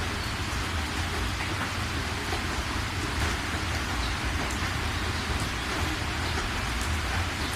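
Steady rain falling, with scattered sharper drop hits and a steady low rumble underneath.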